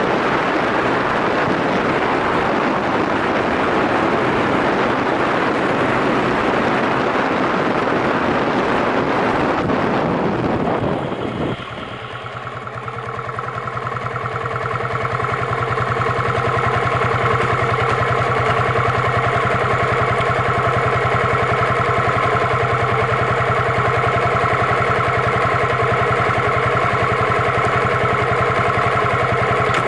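Motorcycle riding with heavy wind and road noise for about the first ten seconds; then the rush drops away and the steady note of the Yamaha SRX400's single-cylinder engine comes through clearly, rising in loudness over a few seconds and then holding even.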